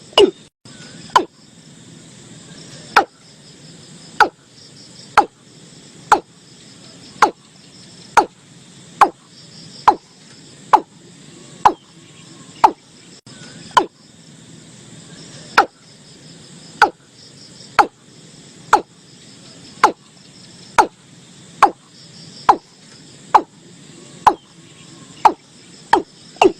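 Watercock (Gallicrex cinerea) calling: short, sharp, knocking notes repeated about once a second, each falling quickly in pitch. Crickets trill faintly behind.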